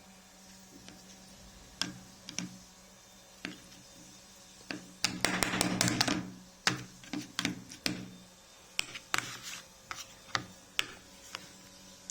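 A spoon tapping and scraping against a bird feeding dish as mashed potato is spread onto carrot: scattered light taps, with a dense run of scraping and clicking about five to six and a half seconds in.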